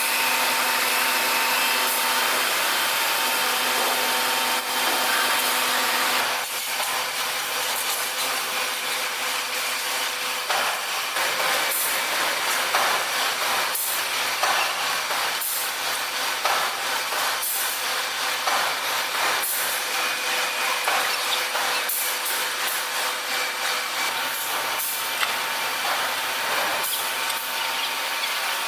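Tire-shredding machine for tire-derived fuel running under load: a steady loud machine hum with a few held tones, joined from about six seconds in by a continual irregular crackle and clatter.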